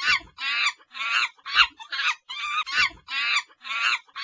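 Monkey calls: a fast series of short, harsh screeching cries, about two to three a second.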